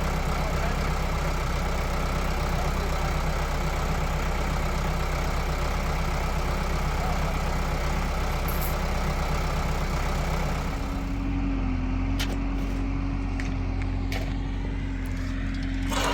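Tractor engine running steadily. About eleven seconds in, the sound changes: the hiss drops away, leaving a low running note and a steady hum, with a few sharp clicks.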